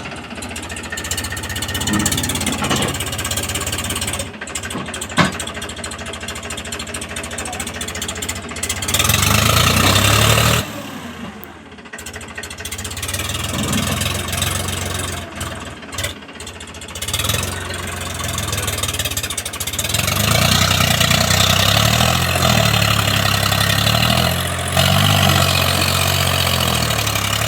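Tractor engine running under heavy load and revving up in long surges, twice growing louder for several seconds, as it strains to pull a stuck sugarcane load free. A single sharp click about five seconds in.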